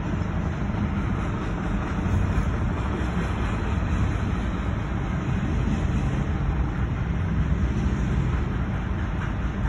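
CSX freight train of intermodal container cars rolling past the crossing, a steady low rumble heard from inside a stopped car.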